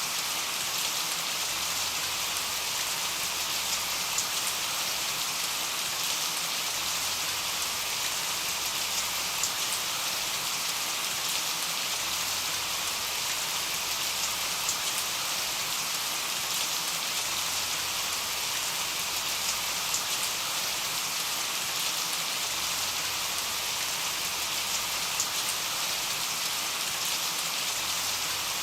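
Steady, even rain falling, with occasional sharper ticks of single drops.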